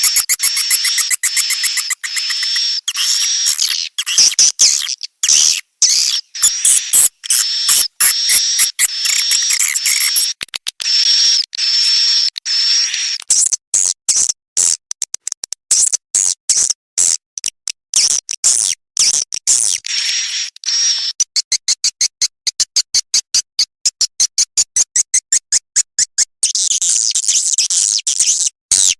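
Swiftlet lure-call recording: rapid, high twittering chirps and buzzy trills of swiftlets, played back as a call to draw the birds into a swiftlet house. In the second half the calls turn into a fast, even run of clicks.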